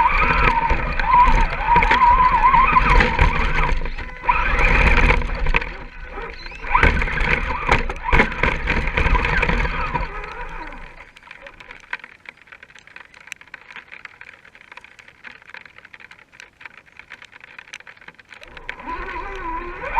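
An RC rock crawler's electric motor and gears whining, the pitch wavering with the throttle, over a low rumble. About ten seconds in it stops, leaving faint scattered ticking until the whine comes back near the end.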